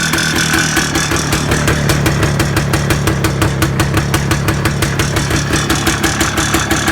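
IZh Planeta 5 single-cylinder two-stroke motorcycle engine idling with an even, regular beat, running smoothly.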